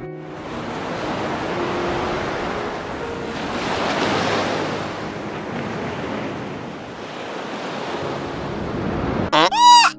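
Shallow sea water washing and lapping, a steady hiss of small surf that swells about four seconds in. Near the end a loud bleat-like animal call cuts in, rising and falling in pitch.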